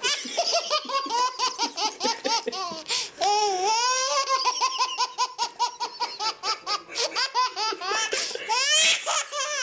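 Baby girl laughing hysterically in quick bursts, several laughs a second, breaking into one long high-pitched squeal partway through.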